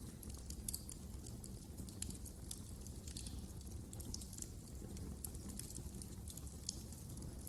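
Wood fire crackling, with frequent small irregular pops and snaps over a low steady rumble.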